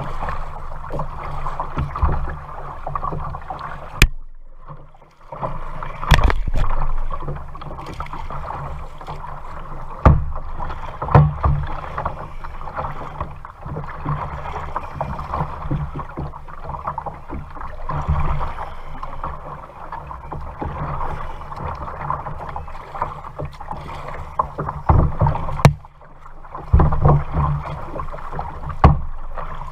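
Kayak out on the water: paddle strokes and water splashing and sloshing against the hull, with wind noise on the microphone. A sharp click stands out twice, once about four seconds in and once near the end.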